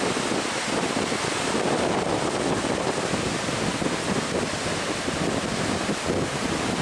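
Strong wind buffeting the microphone in a steady rush, mixed with the wash of Lake Superior surf.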